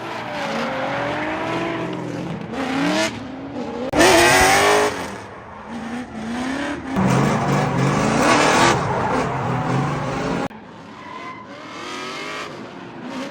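Drift cars revving hard with tire squeal, in several short segments cut together: engine pitch climbing and dropping with each rev, the loudest burst about four seconds in.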